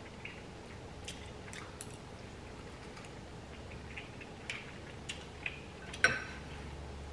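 Quiet chewing and wet mouth sounds of someone eating spicy noodles, with small scattered clicks. About six seconds in comes one sharp clink, the loudest sound, with a brief ring, as a metal fork strikes a glass bowl.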